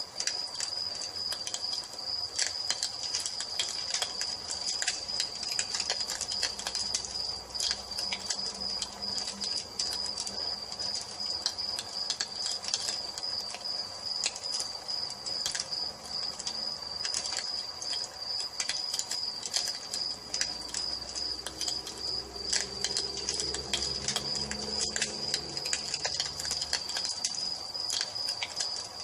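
Wood fire crackling with many irregular sharp pops and snaps, over a steady high-pitched chorus of crickets chirping.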